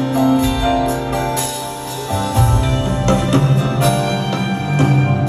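Live band playing an instrumental passage with no singing. Bass and chords shift about two seconds in, under light high percussion strokes.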